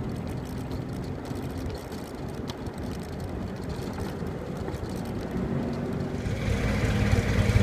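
Engine and road noise heard from an open vintage car while it drives along, a steady low rumble; the engine hum grows louder near the end.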